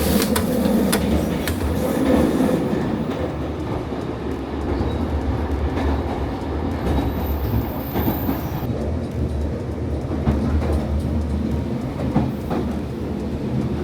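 Limited express Yakumo train running on the rails, heard from inside the carriage: a steady rumble with a few sharp clicks and clunks. A brief high-pitched tone comes in about halfway through.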